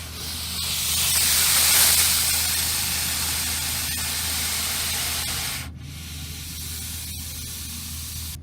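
A steady hiss for about six seconds that then drops away, leaving a quieter low hum.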